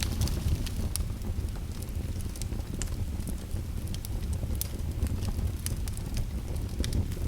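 Wood fire burning in a fireplace: a steady low roar of the flames with frequent small crackles and pops of burning wood, scattered irregularly throughout.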